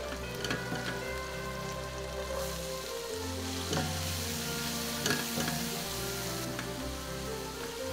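Garlic and chopped onion sizzling in melted butter in a nonstick pan, with a few sharp knocks of the spatula as they are stirred.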